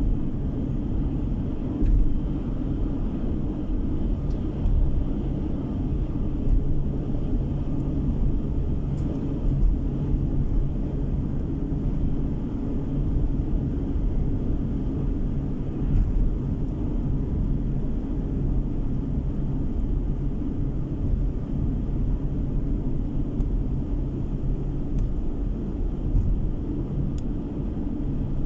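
Steady road noise inside a moving car's cabin: a continuous low rumble of tyres and engine while driving.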